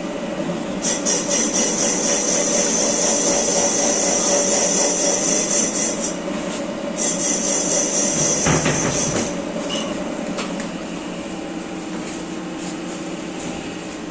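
Factory machinery running with a steady hum. Over it come two loud spells of high, fast-rattling hiss from a tool at work, the first about five seconds long and the second about two, with a low knock near the end of the second.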